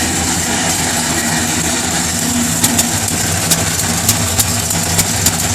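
Oldsmobile 350 Rocket V8 idling steadily, with a sharp tick that comes through from about halfway in, irregular, roughly once or twice a second. The owner suspects a noisy lifter, or possibly an exhaust leak, on one cylinder.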